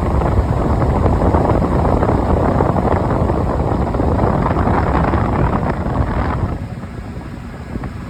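Rooftop direct-drive exhaust hood fan running, a loud steady rush of air and motor hum, on its newly fitted capacitor. It gets noticeably quieter about six seconds in.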